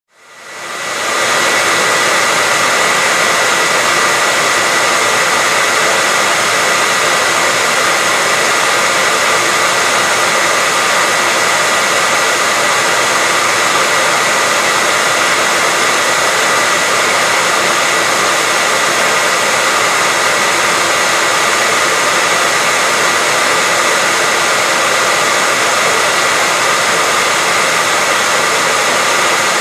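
Hair dryer running steadily: an even rushing hiss with a steady high whine through it, fading in over about the first second.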